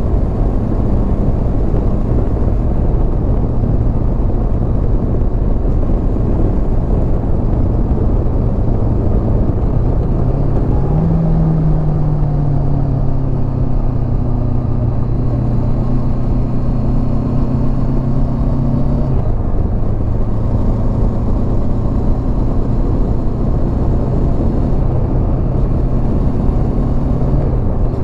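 Honda CB500X parallel-twin engine running at road speed, heard through heavy wind rush on the on-board microphone. The engine note rises about a third of the way in and drops again about two-thirds through.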